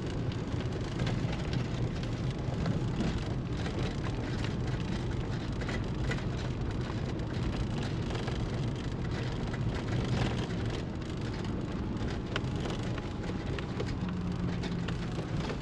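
Four-wheel-drive towing a caravan down a steep, rutted track in low range, heard from inside the cab: a steady low engine hum with the tyres crunching and many small knocks and rattles as it jolts over the ruts.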